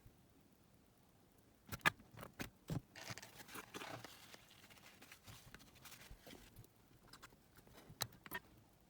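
Sharp clicks and taps of small hard parts being handled on a workbench, a few about two seconds in, then a stretch of rustling, and two more clicks near the end.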